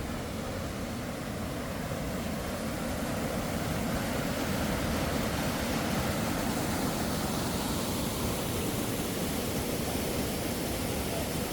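Steady rushing of a waterfall: an even, unbroken water noise that grows a little louder a few seconds in.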